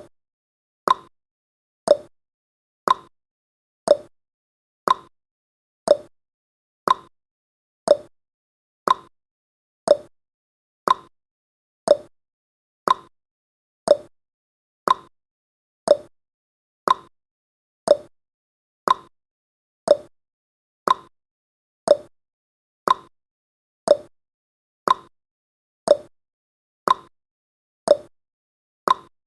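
A countdown timer's clock-style ticking sound effect, one short, sharp tick each second, perfectly regular.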